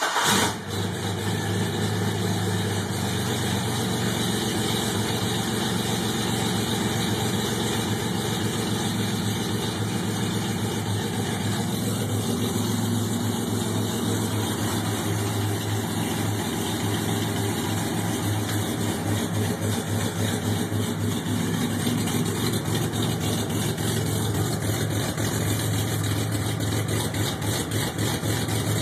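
Camaro V6 fitted with a GT2 cam and running on open headers, idling steadily just after being started; it surges in the first second before settling.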